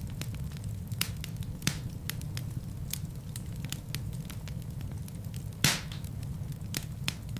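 Wood fire burning in a fireplace: a steady low rumble of flames with irregular sharp crackles and pops from the logs, one louder pop a little over halfway through.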